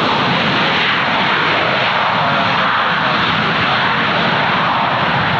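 Airliner engines running: a steady, loud rush of engine noise.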